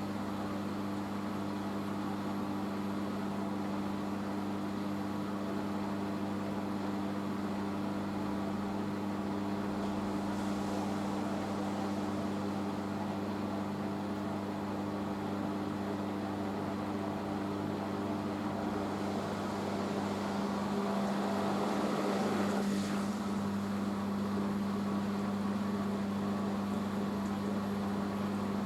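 Hoover H-Wash 500 front-loading washing machine in its rinse spin, the drum spinning at a steady speed with a constant motor hum. About twenty seconds in, a rushing noise swells for a few seconds, then falls back.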